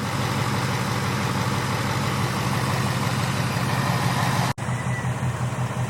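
Ford Mustang GT's 5.0 L Coyote V8 idling steadily, warmed up, with any tick only faint: what the owner takes for the normal Coyote tick. The sound cuts out for an instant about four and a half seconds in, then the idle resumes a little quieter.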